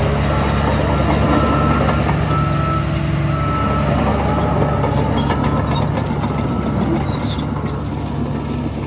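Heavy diesel earthmoving machinery running steadily under load, with intermittent high squealing tones over the engine sound.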